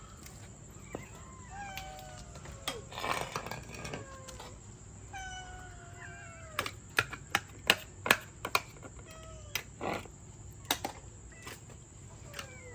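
Domestic cats meowing: several drawn-out calls that fall in pitch, with a run of sharp clicks or taps in the middle of the stretch.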